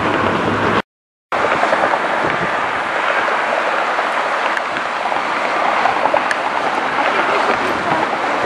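Steady rushing jet airliner engine noise, cut off completely for about half a second about a second in.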